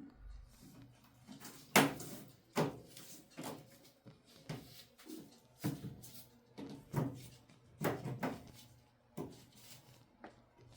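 Series of sharp clicks and knocks, about one a second at uneven spacing, from hand work with a clamp-removal tool on a washing machine's door-seal clamp.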